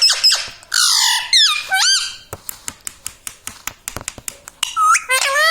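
Indian ringneck parrot squawking and making high gliding calls, with one harsh screech about a second in. A run of sharp irregular clicks fills the middle, and a final call comes near the end.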